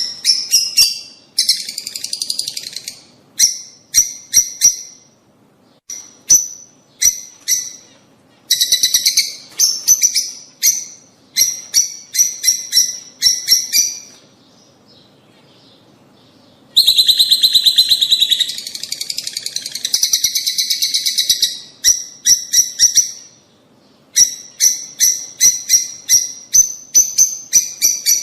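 Lovebirds calling: sharp, high-pitched chirps in quick runs, broken by longer stretches of fast chattering, with a pause of about three seconds just past the middle.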